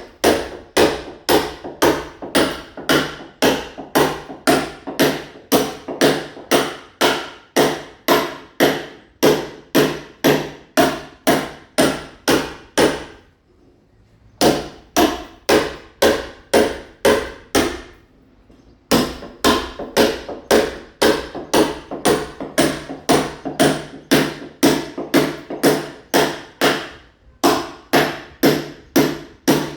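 A mason's hammer striking a masonry wall over and over, chipping and roughening the plaster so that ceramic tile will bond, at an even pace of about two or three blows a second. The blows stop for about a second twice near the middle and briefly again near the end.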